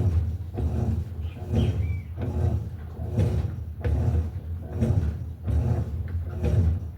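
Electrolux LTE08 top-loading washing machine agitating its load: the motor drives the agitator back and forth in a steady rhythm of about three strokes every two seconds, with the load and water churning.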